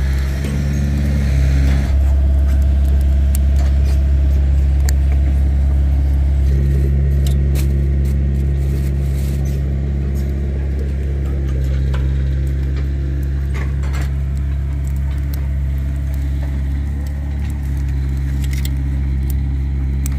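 A steady low engine drone runs throughout, its pitch shifting slightly a couple of times, with scattered sharp clicks and crackles over it.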